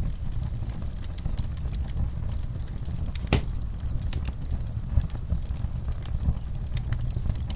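Fireplace fire crackling, with a steady low rumble of the flames and irregular sharp pops, one louder pop a little before halfway.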